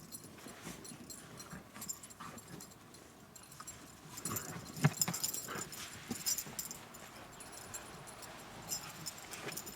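Dogs playing in snow: scattered scuffling clicks and rustles, with one sharp, louder sound about five seconds in.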